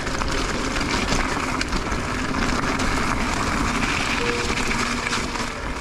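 Electric mountain bike rolling downhill over a rocky, loose-stone trail: a steady rush of tyre noise and bike rattle. A faint thin whine comes in about four seconds in.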